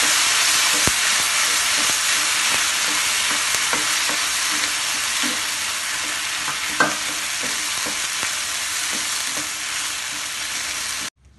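Ground tomato chutney sizzling in hot oil in a non-stick frying pan as a spatula stirs it, with light scrapes and taps of the spatula on the pan. The sizzle eases gradually and cuts off suddenly just before the end.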